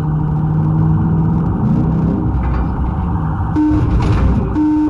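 Motor vehicle driving: a steady, loud engine and road rumble, with a couple of short steady tones near the end.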